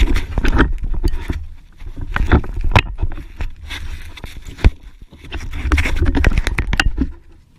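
Irregular knocks, bumps and scraping on a kayak in three loud clusters as a caught fish is handled and worked back into the water.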